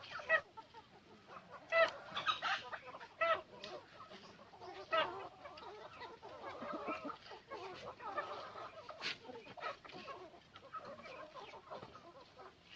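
Free-range native chickens clucking: short calls at irregular intervals, from several birds.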